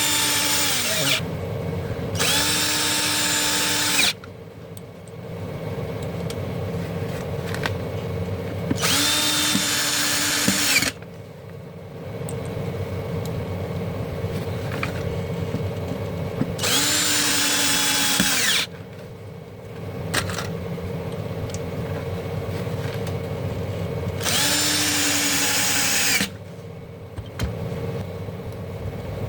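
Small electric power tool motor, drill-driver type, running in bursts of about two seconds. It runs five times, with long gaps between, and its whine falls away as each burst stops.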